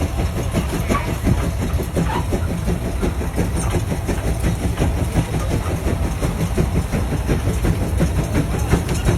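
Large tractor engine running steadily with a fast, even chugging beat.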